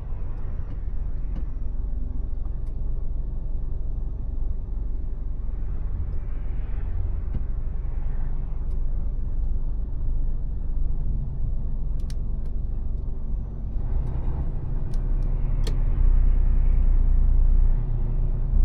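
Mercedes Actros truck's diesel engine and road noise: a steady low rumble that gets louder about sixteen seconds in, with a few sharp clicks.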